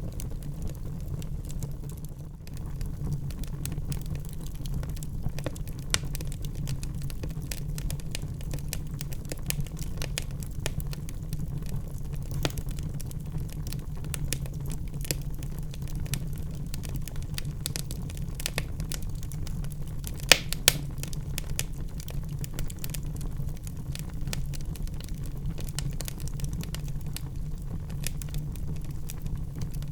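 Wood fire burning in a fireplace: a steady low rumble with frequent scattered crackles and pops, two sharper pops about twenty seconds in.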